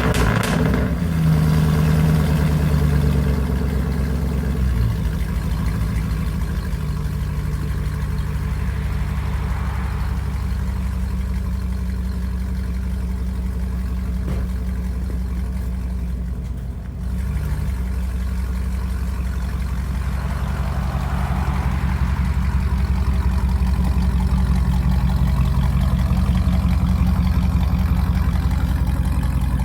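Straight-piped 2003 Chevy Tahoe V8 with no catalytic converters, running with its exhaust open. It comes down from a fast idle to a steady idle about four to five seconds in, with a brief dip in level partway through.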